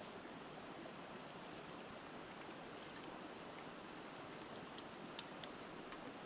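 River water running in a steady rush under a crackling wood fire, with scattered small pops and a few sharper cracks just after five seconds in.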